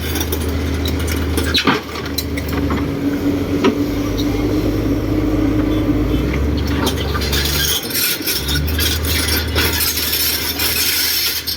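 Diesel engine of a heavy earthmoving machine running steadily, with repeated metallic clinks and clanks from the machine's steel parts working.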